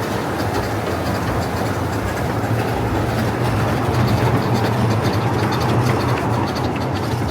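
Coal-fired steam train running along its track: a steady rumble of the cars on the rails with a low hum underneath and light, repeated clicking.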